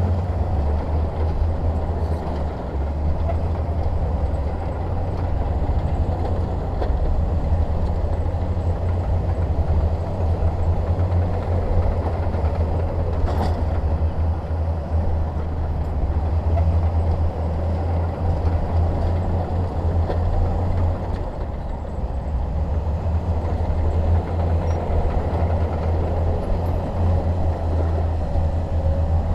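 Heavy bulldozer's diesel engine running steadily under load, a deep continuous drone with the clatter of the working machine, and one short sharp clank about thirteen seconds in.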